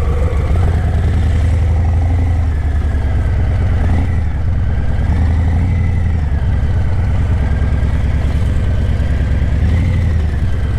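Harley-Davidson Breakout 117's Milwaukee-Eight 117 V-twin running through Vance & Hines Eliminator 300 slip-on mufflers while riding, a loud low exhaust note that swells and eases a few times with the throttle.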